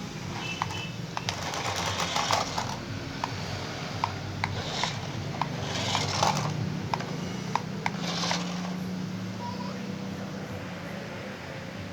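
A small electric motor of a remote-controlled toy vehicle runs with a steady whir. Irregular sharp plastic clicks and short rattling bursts come on top of it, several times.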